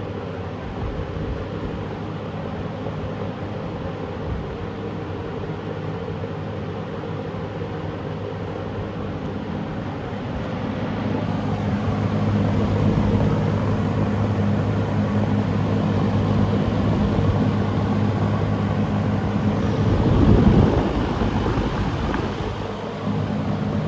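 1974 Lakewood P23 20-inch box fan running on high: a steady motor hum with its running harmonics over the rush of moving air. It grows louder about halfway through, with a brief louder surge near the end.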